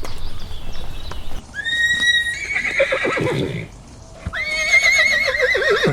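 A horse whinnying twice, each a long, wavering call that starts high and falls away.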